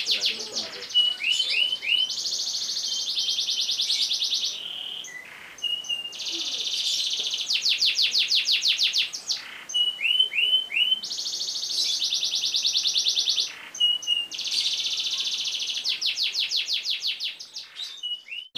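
Domestic canary singing a long rolling song: blocks of very fast, even trills lasting a few seconds each, broken by short downward-sliding chirps in twos and threes.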